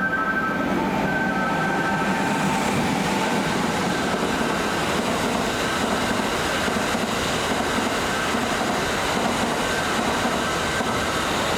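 Kintetsu electric train running past the station platform: a steady, loud rush of wheel and rail noise.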